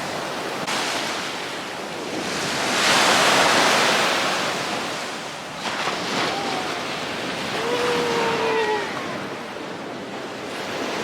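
Sea waves washing up a sandy beach, one wave swelling loudest about three seconds in and then fading as it runs up the shore, with wind on the microphone.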